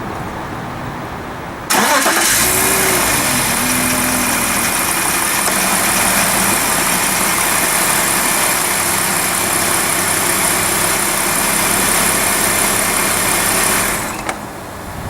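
2002 BMW 325's straight-six engine starting up about two seconds in, its revs flaring briefly before settling to a steady idle, then shut off about a second before the end. It is run briefly after an oil change to fill the new oil filter.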